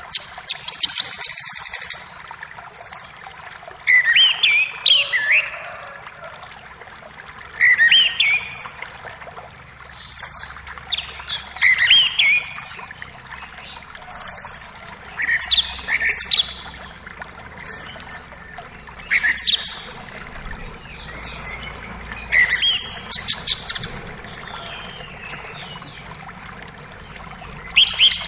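Songbirds calling over and over in a forest: short, high, downward-sliding chirps come every second or two, with some lower warbled phrases among them. Beneath them runs a steady hiss of creek water.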